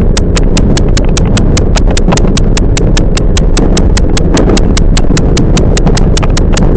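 Toyama Chiho Railway 10030 series electric train running, heard from inside the car: a loud steady rumble with an even rapid clicking, about five clicks a second.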